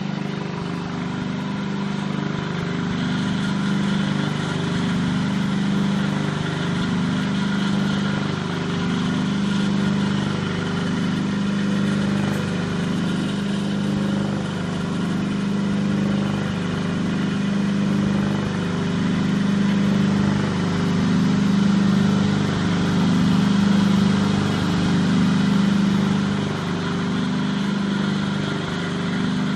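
Electric-motor test bench driving a magnetic power transmission, running at steady speed: an even mechanical hum with a slow, regular pulsing.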